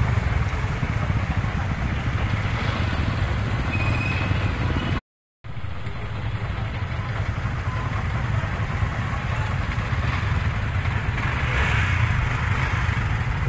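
Motorcycle running on the road during a ride, a steady rumble of engine and road noise. It cuts out to silence for about half a second about five seconds in.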